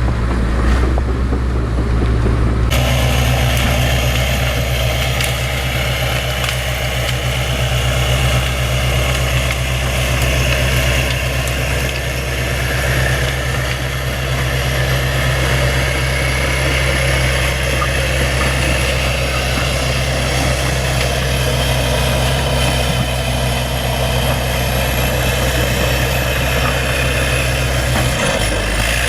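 Bulldozer's diesel engine running steadily at an even speed. About three seconds in the sound changes abruptly and a noisier, brighter layer comes in over the engine hum.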